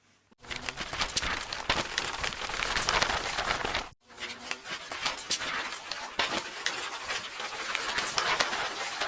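Paper pages rustling and tearing: a dense crackle of sharp paper clicks that starts after a moment of silence, cuts off abruptly about four seconds in and starts again straight away.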